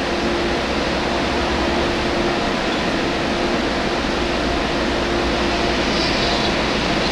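MTR A-Train electric multiple unit running into the station: a steady rushing rumble with a faint steady hum underneath.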